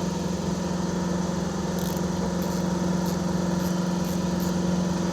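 A motor running steadily at a constant pitch, an engine-like hum, with a few faint light ticks in the second half.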